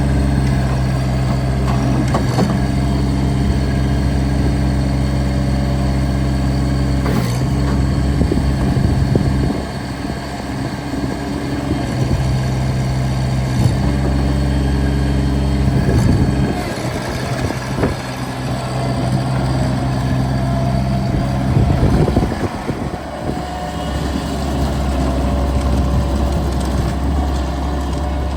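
Bobcat MT85 mini track loader's diesel engine running steadily, its note sagging twice for a few seconds and then recovering, with occasional sharp clanks.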